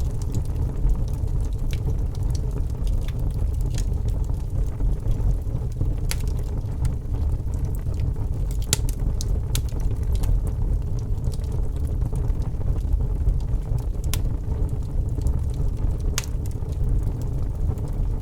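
Wood fire burning in a fireplace: a steady low rumble with scattered sharp crackles and pops of the burning wood.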